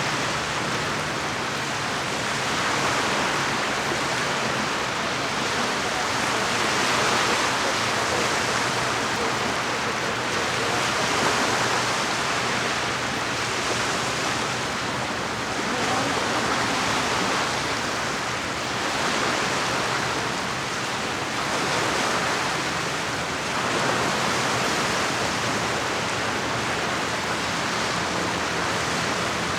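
Small lake waves washing against the shore: a steady rush of water that swells and eases every few seconds.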